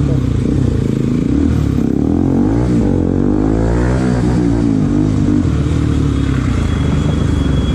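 Motorcycle engine running, its pitch rising and falling as the throttle is worked about two to five seconds in, then settling back to a steady note.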